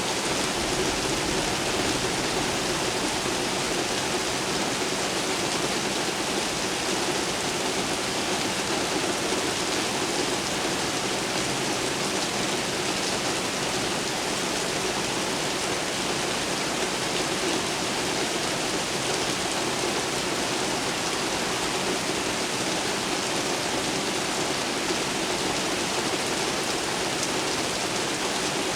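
Steady rain falling in a downtown thunderstorm: an even, unbroken hiss of rain on city surfaces, with no thunder.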